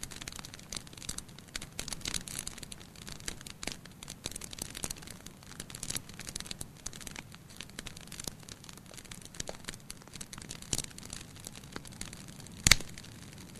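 Wood fire burning in a fireplace, crackling with many small snaps and one loud pop near the end.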